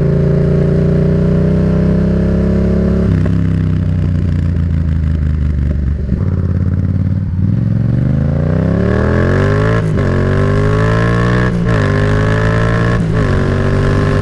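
Yamaha FZ-07 (MT-07) 689 cc parallel-twin engine under way, then pulled hard at full throttle from about halfway. The engine note climbs steeply and drops back at three quick upshifts near the end.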